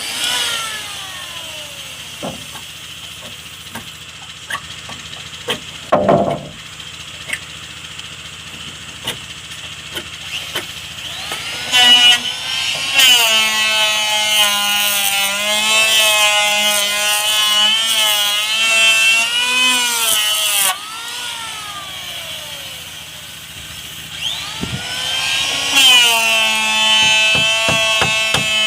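A handheld electric power tool works wood with a whining motor. It winds down at the start, and between runs there are scattered taps and knocks. It spins up about twelve seconds in and runs with its pitch dipping as it bites, cuts off and winds down a little past the middle, then starts again near the end.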